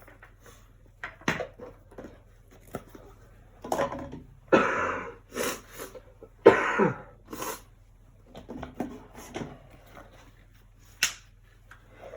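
A person with a cold coughing and clearing their throat, with two heavy coughs about halfway through. Short clicks and taps come in between.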